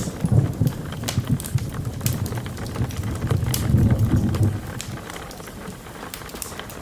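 The low rumble of a thunderclap dying away over about five seconds, with rain and the sharp crackles and pops of a wood fire throughout.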